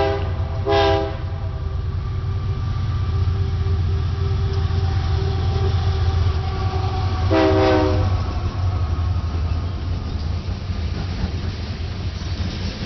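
Diesel freight locomotive sounding its multi-note air horn over the steady low rumble of the train: two short blasts at the start, then a longer blast about seven seconds in.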